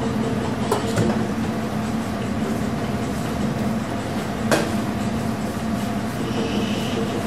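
Steady mechanical hum and rumble, with a few sharp knocks about a second in and again past the middle.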